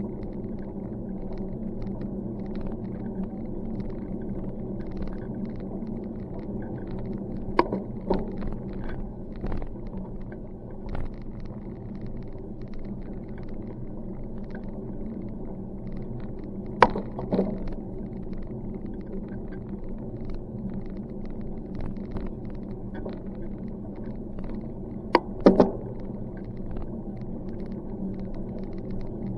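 Steady rumble of a bicycle ride on a paved road, with a few sharp knocks or rattles, likely from bumps: one about a quarter of the way in, one just past halfway, and two or three close together near the end.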